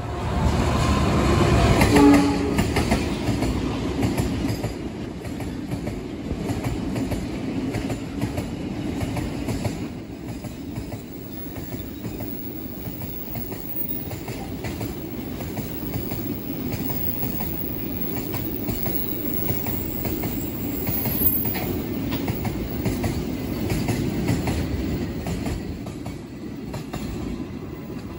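A diesel locomotive hauling a long train of fuel tank wagons passes close by: loudest in the first two seconds, then a steady rumble with the clickety-clack of wagon wheels over rail joints.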